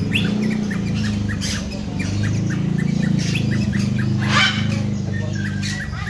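Caged birds chirping, with a quick run of short chirps, several a second, and one louder harsh squawk about four and a half seconds in, over a steady low hum.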